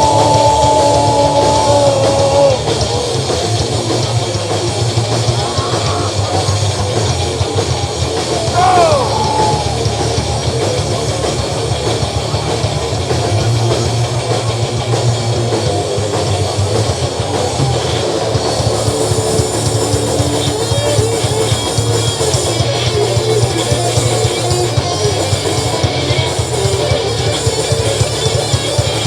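A live rock band playing loudly, with drum kit and electric guitar, in an instrumental passage of a fast, heavy protest song.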